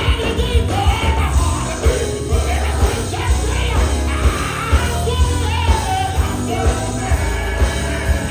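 Live gospel band playing an up-tempo song with heavy bass and a steady drum beat, voices singing and shouting over it.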